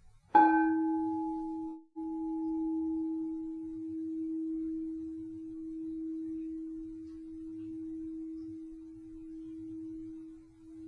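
Crystal singing bowl for the solar plexus chakra, struck once about half a second in. Its higher overtones die away within a couple of seconds, and one steady tone rings on with a slow swell and ebb, broken briefly near two seconds in.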